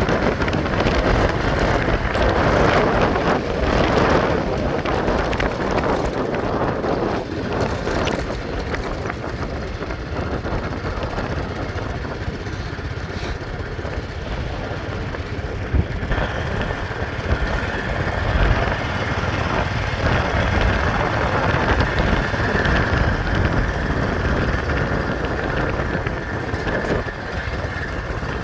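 A vehicle running while on the move, with wind noise; about sixteen seconds in, the sound shifts and a steady higher hiss comes in.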